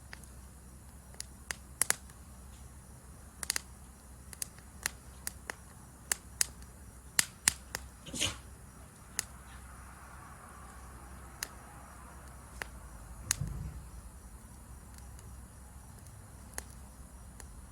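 Wood campfire crackling with irregular sharp pops, one longer hissing pop about eight seconds in, over a steady high chirring of insects.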